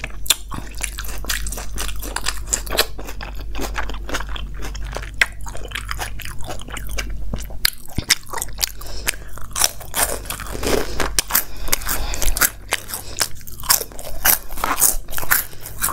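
Close-miked eating: a person chewing biryani and crunchy corn-ring snacks, with many crisp, irregular crunches and mouth sounds.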